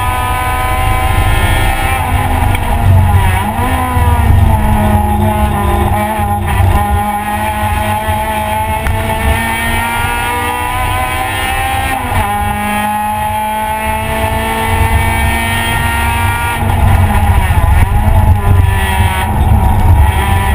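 Car engine heard from inside a stripped race-prepped cabin, driven hard on track with its pitch climbing steadily through a gear, a sharp drop in pitch about twelve seconds in, then climbing again, over heavy road and wind rumble.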